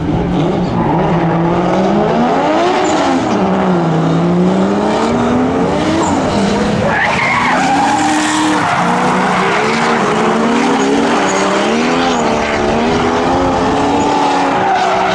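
Drift car engines revving up and down through a run over tyre-skid hiss, with the pitch swinging repeatedly as the throttle is worked; a brief high rising squeal about seven seconds in.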